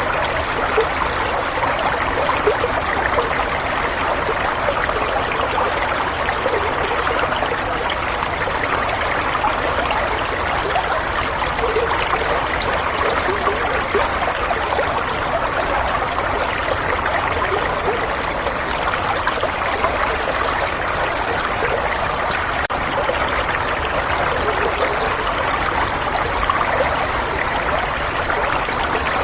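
Running water flowing and trickling steadily, an even unbroken rush used as soothing white noise.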